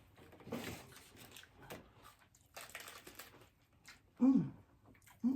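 Crisp hard-shell taco being bitten and chewed, several crackling crunches in a row. A short vocal sound comes a little after four seconds in.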